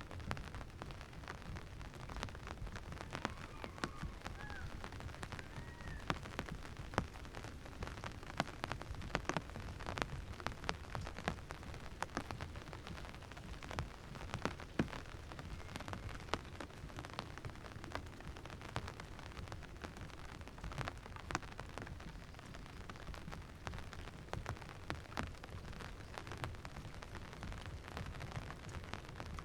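Steady rain falling, with many sharp, irregular drop hits close to the microphone over a low rumble.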